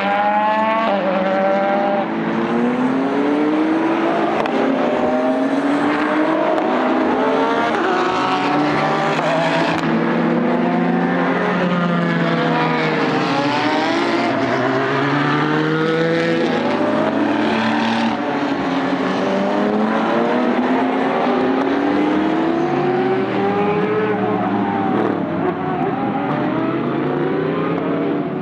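Several race cars running on a road course, their engines climbing in pitch through the gears and dropping at each shift, one car's note overlapping the next without a break.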